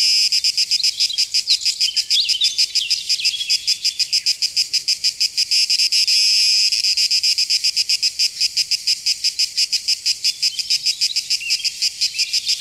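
Insect calling in a rapid, even, high-pitched pulse, several pulses a second, with faint chirps over it.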